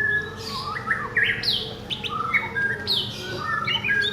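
Cucak ijo (green leafbird) chirping and singing: a fast, busy run of short whistled notes, many sweeping down in pitch.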